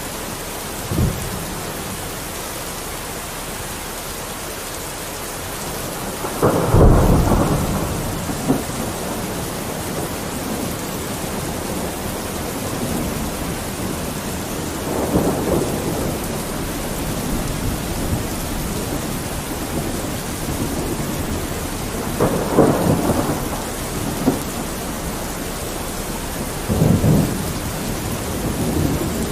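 Steady rain with rolls of thunder rumbling in about five times, the loudest about six seconds in.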